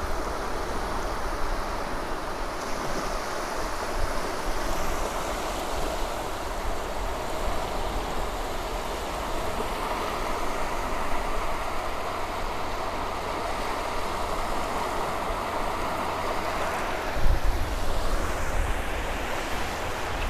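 Surf washing onto a beach as a steady rush, with wind buffeting the microphone and a stronger gust near the end.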